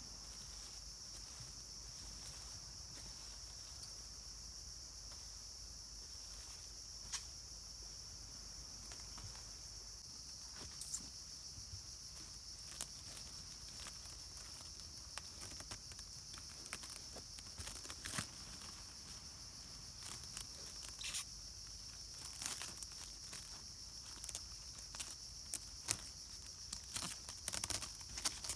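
A steady, high-pitched insect chorus. Scattered short rustles and knocks sound over it, growing more frequent in the second half.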